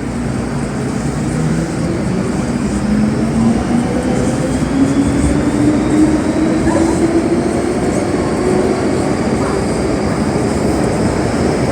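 MTR M-Train heard from inside a passenger car as it pulls away and accelerates: the traction motors whine in one tone that climbs steadily in pitch, over a constant rumble of wheels on track.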